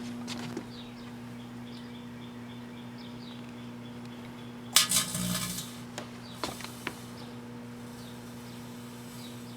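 Microwave oven running with a steady hum while the metal fidget spinner inside arcs: scattered small ticks and chirps, and a loud crackling burst of sparking about five seconds in.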